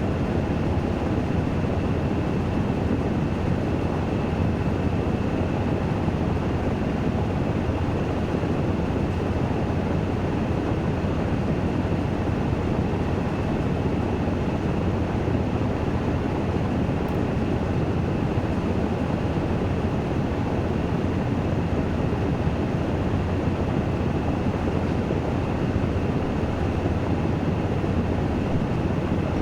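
Washing machine in its spin cycle, the drum spinning at a steady high speed: an even, unbroken whirring rumble with a strong low hum and a faint steady high whine above it.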